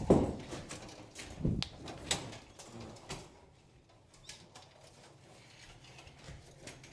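Racing pigeons cooing, with a loud low coo right at the start and another about a second and a half in, among scattered light clicks and knocks.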